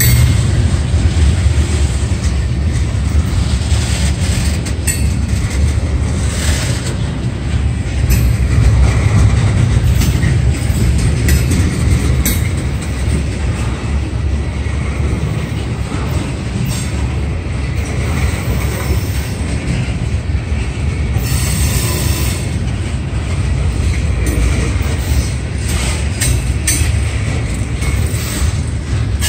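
Loaded ballast hopper cars rolling past on steel wheels: a heavy steady rumble with scattered clanks and clicks from the wheels over the rail, and a few brief wheel squeals.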